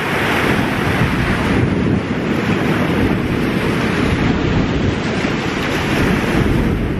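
Small waves breaking and washing up a sandy shore, with wind rumbling on the microphone. A wave's wash is loudest in the first second or so.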